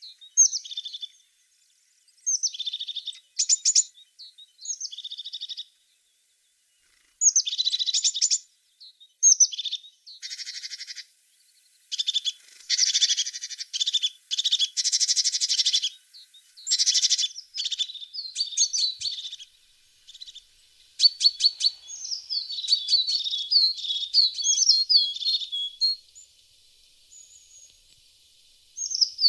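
A tit singing and calling: bursts of high chirps and trills with short gaps between them, a denser run of rasping notes from about ten to seventeen seconds in, and quick twittering notes later on.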